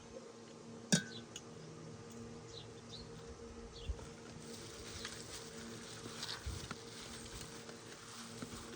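A steady buzz of flies or other insects hovering, with one sharp click about a second in and faint scattered clinks and taps of kitchen handling.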